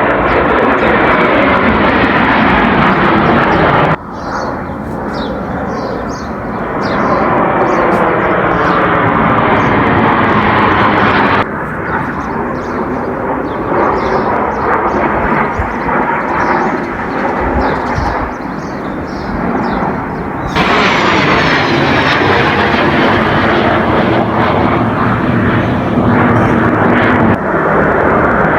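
Aircraft flying past, a loud rushing engine noise that sweeps in pitch as they pass. It breaks off and changes level abruptly several times.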